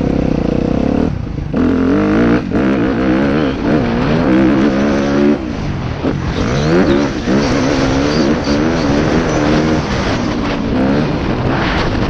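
Motocross bike engines revving hard and dropping back in quick up-and-down swings as they accelerate and shift. Around six to seven seconds in, two engines are heard at once, one pitch rising as another falls.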